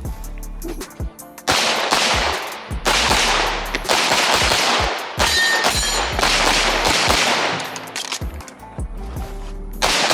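Rapid strings of pistol shots from a compensated 9mm major Open-division race gun, fired in quick bursts with short pauses between them.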